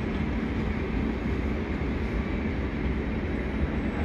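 Passenger train of LHB coaches running on the track, a steady low rumble with no clear wheel clicks.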